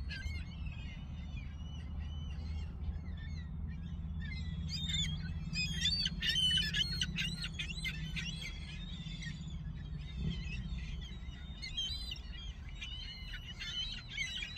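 A flock of gulls calling over one another in short, high, squeaky calls, busiest about four to eight seconds in and again near the end, over a steady low rumble.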